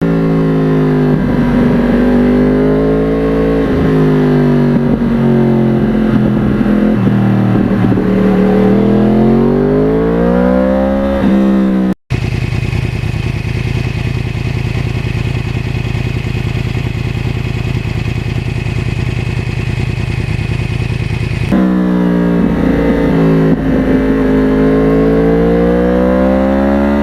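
2009 Yamaha R1's crossplane inline-four engine running through a custom exhaust under riding, its pitch rising and falling as the throttle opens and closes. About twelve seconds in there is a brief cut, followed by a steady, even note for about nine seconds before the rising and falling returns.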